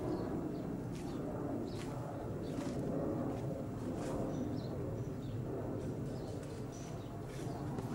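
Outdoor garden ambience: faint, scattered short bird chirps over a steady low background noise.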